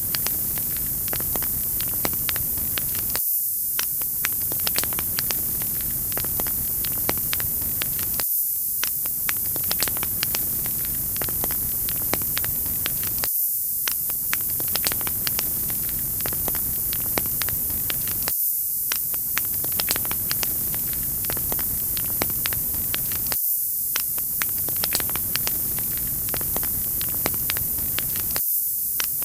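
Wood fire crackling, with many small sharp pops over a steady hiss. The lower, fuller part of the sound cuts out for a moment about every five seconds, as a short recording repeats.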